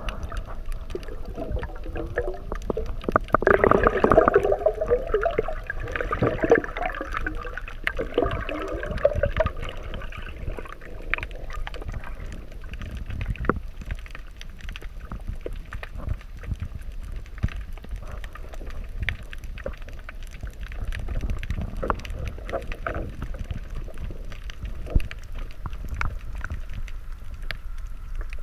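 Underwater sound through a camera's housing: a steady low rumble of moving water with scattered sharp clicks, and a loud stretch of bubbling and gurgling from about three to ten seconds in.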